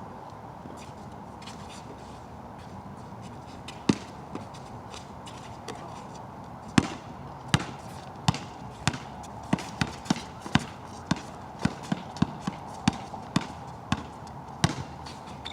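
A basketball bouncing on a wet outdoor court over a steady hiss of rain. A single bounce comes early, then steady dribbling at about two bounces a second through the second half.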